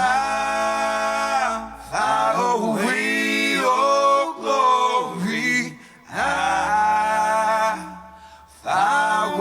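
Male voices singing in close harmony, unaccompanied, in long held notes of a second or two with brief breaths between phrases.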